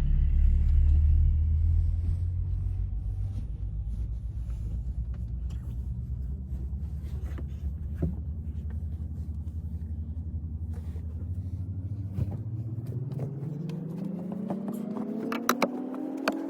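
A vehicle engine running with a steady low rumble. From about twelve seconds in its pitch climbs smoothly, like an engine revving up or pulling away. A few light clicks and knocks are mixed in.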